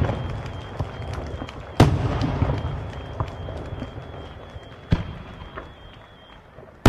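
Aerial firework shells bursting: two heavy bangs about three seconds apart, each followed by a rolling rumble and scattered crackle, and a third bang right at the end.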